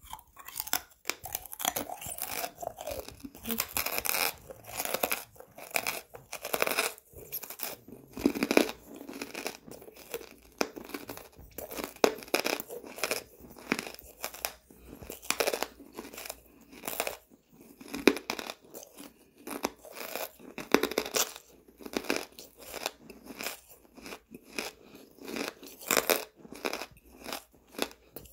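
A person chewing a piece of charcoal close to the microphone, with a steady run of soft crunches as it breaks up between the teeth.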